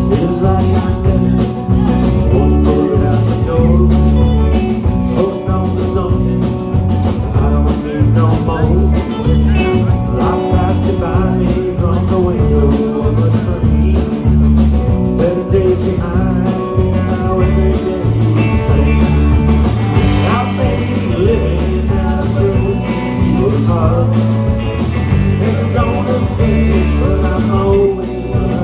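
Live band playing the instrumental opening of a country-rock song: electric guitar leads over bass and a steady drum beat.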